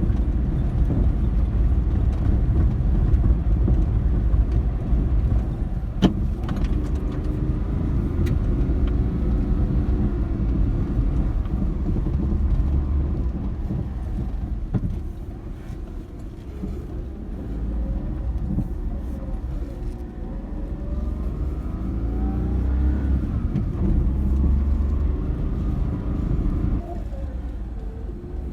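Daihatsu Terios Kid's EF-DET 660 cc turbocharged three-cylinder engine running under way, over a steady low rumble, its note rising and falling with changes of speed. There is a sharp click about six seconds in.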